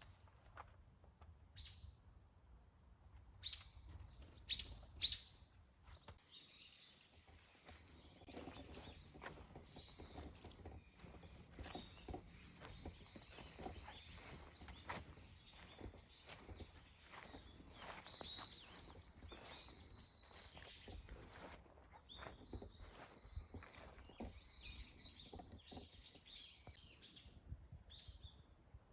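Small birds chirping and calling repeatedly, with three sharp chirps a few seconds in and a run of quick high calls after, over faint scattered clicks and rustles.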